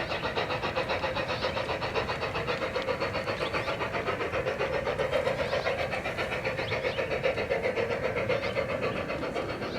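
Battery-powered large-scale garden railway train running along the track, with a steady, rapid rhythmic beat of about seven pulses a second.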